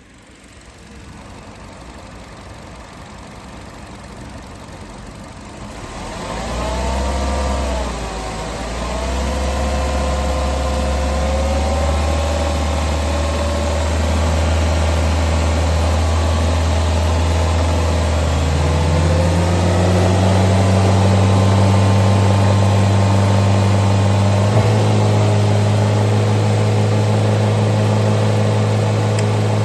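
2014 Buick Encore's 1.4-litre turbocharged four-cylinder engine starting about six seconds in, flaring briefly and settling into a steady idle. Later its speed rises and holds at a higher, steady pitch.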